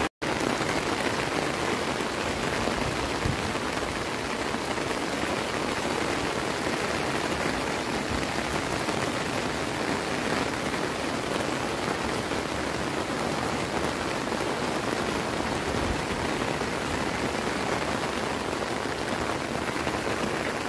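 Steady rain falling on a swollen, fast-flowing flooded river: an even rushing hiss with no break.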